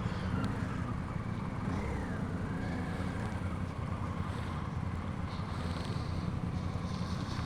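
Motorcycle engine running at low speed while parking: a steady low rumble.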